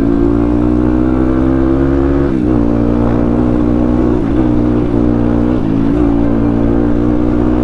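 Dirt bike engine running steadily, its pitch dipping briefly and recovering three times.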